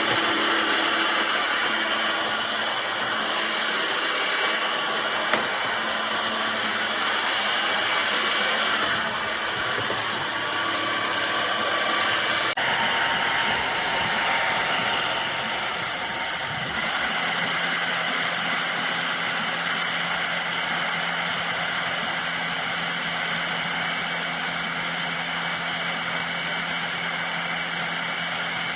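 KESSER cordless stick vacuum cleaner running with a steady rush of air and a thin high motor whine. The sound changes abruptly partway through, and soon after the whine glides up to a higher steady pitch.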